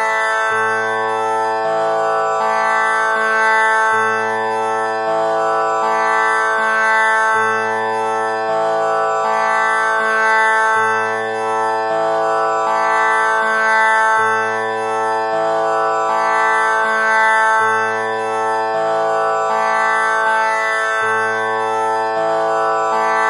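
Tanpura drone tuned to A: its strings are plucked one after another about once a second in a repeating cycle, and the overtones ring on continuously over a low A.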